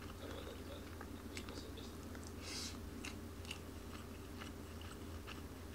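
Close-up sounds of a person chewing and eating, with scattered small clicks and crunches and one longer crunchy burst about halfway through, over a steady low hum.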